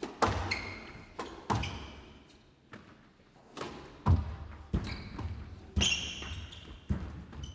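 Squash rally: a hard rubber squash ball struck by rackets and smacking off the court walls, sharp hits every half second to a second, each with a short ringing tail. Short high squeaks from shoes on the court floor come in among them.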